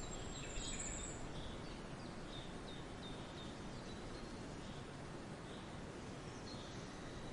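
Songbirds chirping in a forest over a steady background hiss: a high whistle in the first second, then a run of short repeated chirps, fading toward the end.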